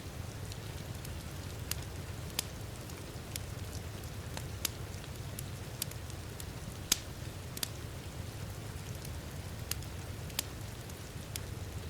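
Wood fire crackling in a fireplace, with irregular sharp pops, over a steady low rumble of heavy rain.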